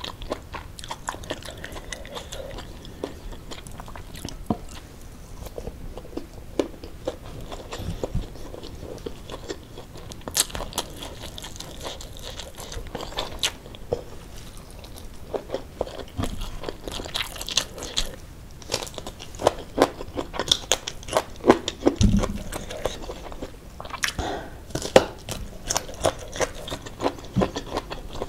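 Close-up chewing and crunching of a mouthful of rice with anchovy and shredded-chicken sambal, made of many small sharp crunches that get busier about halfway through.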